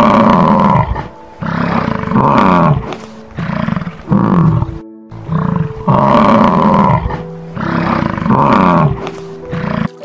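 American bison bellowing: a run of deep, drawn-out calls, about one every second and a half, over soft piano music.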